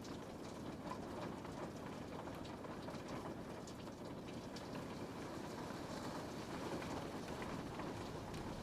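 Steady rain falling on a window, an even wash of sound with scattered small drop ticks.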